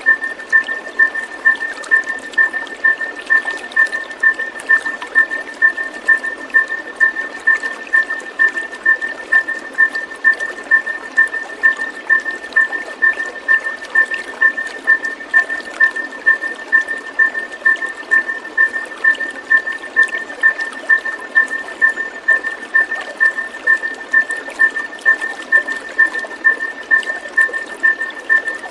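Steady rush of running water under a high chirp of unchanging pitch that repeats evenly, about twice a second.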